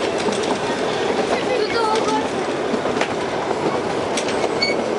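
Narrow-gauge toy train running, heard from inside a carriage: a steady rattle of wheels and coach with a few sharp clicks over the rails.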